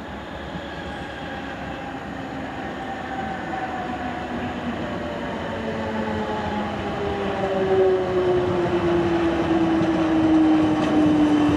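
Electric multiple-unit passenger train approaching, growing steadily louder. Its traction motors give a whine of several tones that slowly falls in pitch as the train slows.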